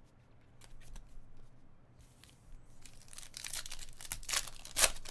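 A trading card pack's foil wrapper being torn open and crinkled. A few faint clicks of card handling come first, then from about three seconds in a stretch of tearing and crinkling, with one sharp rip near the end.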